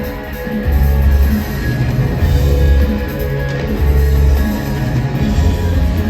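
Live rock band playing an instrumental passage: guitar and drum kit over a heavy bass line that repeats a long low note about every second and a half.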